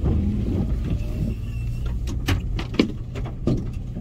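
Toyota FJ Cruiser's 4.0-litre V6 engine running steadily while off-roading on a rough trail, with several sharp knocks and clunks in the second half.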